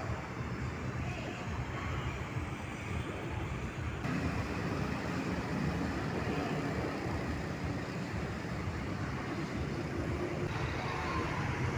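Road traffic with heavy vehicles passing: a steady mix of engine and tyre noise that gets louder about four seconds in.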